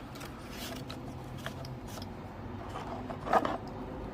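Handling noise of a watch box and its papers being moved: scattered light clicks, rustling and scraping, with one louder brief rustle a little over three seconds in, over a steady low room hum.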